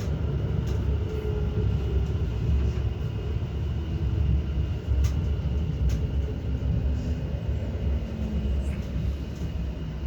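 Passenger train heard from inside the carriage: a steady low rumble of the wheels on the track, with a few sharp clicks.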